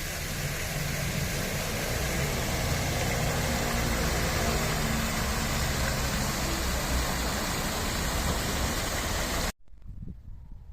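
A vehicle engine running steadily, heard as a continuous low rumble, cut off abruptly about nine and a half seconds in.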